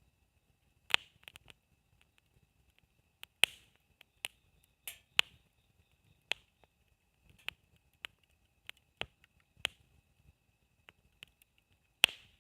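Wood campfire crackling: sharp, irregular pops and snaps of burning wood, roughly one a second, with a few louder cracks.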